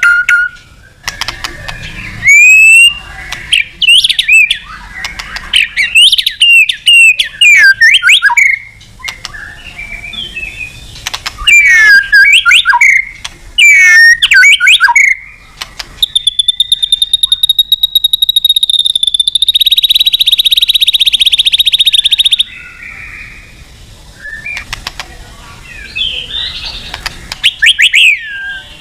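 White-rumped shama (murai batu) singing loudly in a string of fast whistled phrases, notes sliding up and down. About sixteen seconds in, the song turns into a steady, rapid buzzing trill that lasts about six seconds, then the whistled phrases return.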